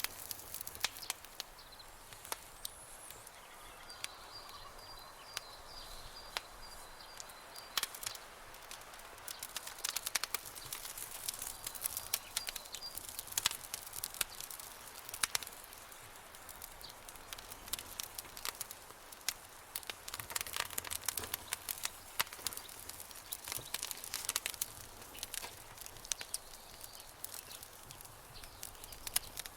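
Wood campfire crackling, with irregular sharp pops and snaps over a steady soft hiss.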